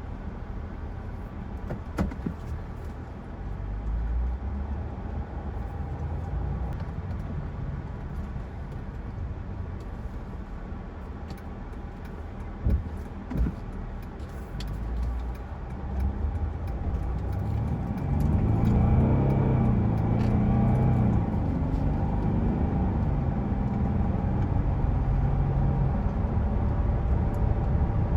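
Mercedes-Benz E320 Bluetec's 3.0-litre V6 turbo diesel (OM642) driving on the road. Its engine note rises and grows louder under acceleration about two-thirds of the way in, then holds at the higher level. Two sharp knocks come about halfway through.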